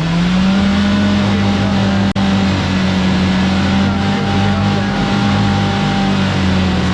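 Off-road vehicle engine revved up and held at high, steady revs as it tries to crawl over a rock with the tires spinning. A brief cut-out in the sound about two seconds in.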